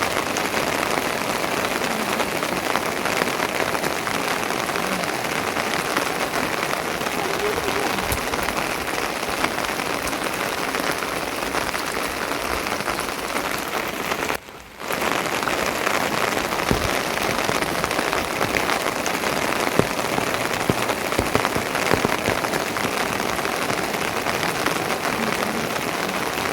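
Steady rain falling: a dense even hiss with many small drop hits. It cuts out briefly about halfway through, then resumes.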